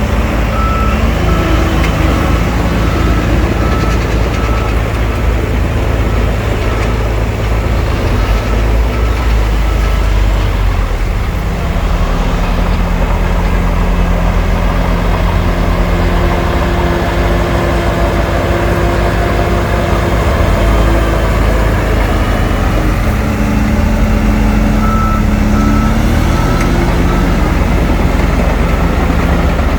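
Heavy diesel engines of a bulldozer and dump trucks running steadily, their pitch shifting now and then. A reversing alarm beeps steadily for several seconds near the start and again for a few seconds later on.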